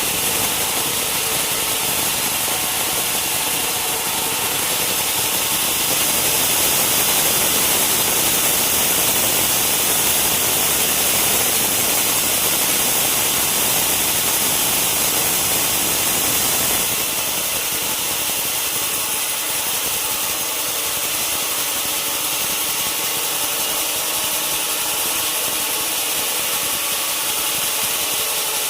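Sawmill machinery running steadily with an engine-like hum, a little louder for about ten seconds in the middle before easing off.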